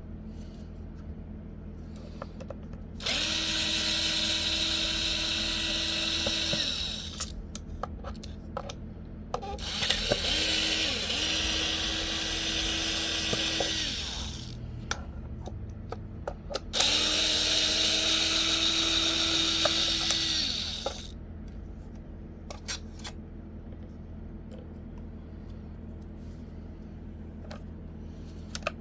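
Small electric power tool running in three bursts of about four seconds each, each with a steady whine. Light clicks and handling noises fall between the bursts.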